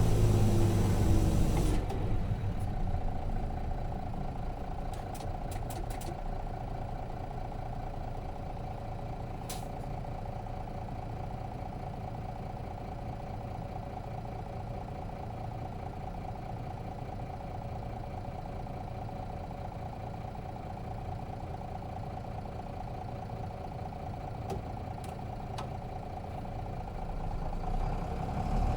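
Nissan Diesel RM bus's FE6 diesel engine heard from inside the cabin: it falls in pitch and quietens over the first two seconds as the bus slows, then idles with a steady hum. There are a few faint clicks, and the engine grows louder again near the end.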